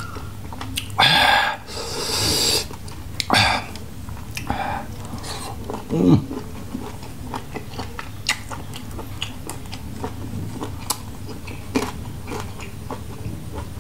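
A man chewing grilled squid tentacles close to the microphone, with many small wet smacks and clicks of the mouth. There are two loud slurps about one and two seconds in, and a short hummed vocal sound about six seconds in.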